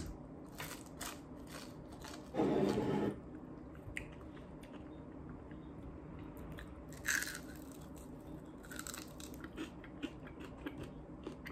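Close-up chewing of crisp deep-fried sea snake, with scattered crackles and a few louder crunches as the fried skin and small bones break. About two seconds in, a short hummed 'mm' from the eater.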